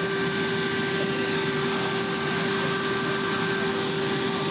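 Helicopter turbine engines running with a steady, unbroken whine over a rushing noise.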